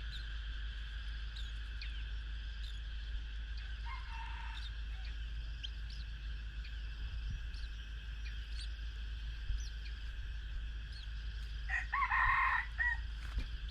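A rooster crowing once, about a second long, near the end, over a steady high background with scattered short bird chirps and a brief call a few seconds in.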